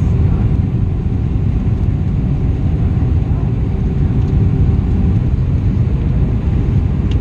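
Steady low rumble of an Airbus A320 in flight on approach, heard inside the cabin: engine and airflow noise with a faint steady hum, unchanging throughout.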